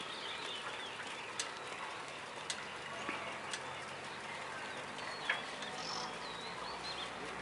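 Birds calling and chirping in the trees, with short high whistled notes that slide up and down, and a few sharp clicks.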